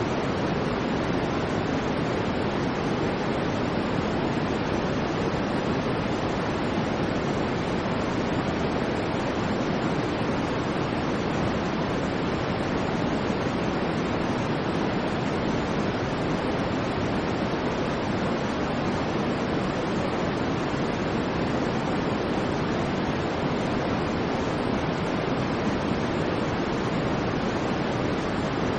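Steady, unchanging synthetic white noise, the kind played for sleep, weighted toward the low end so it sounds more like a deep rush than a bright hiss.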